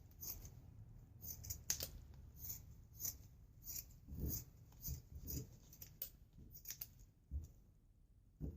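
Scissors snipping through a folded old t-shirt, one short crisp cut after another, about one to two a second, as it is cut into rags.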